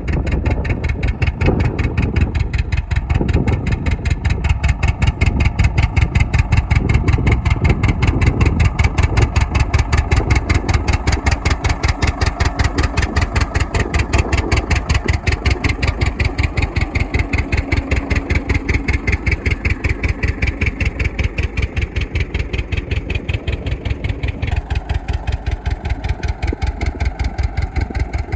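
Old engine running steadily with a rapid, even beat; its tone shifts a little about 24 seconds in.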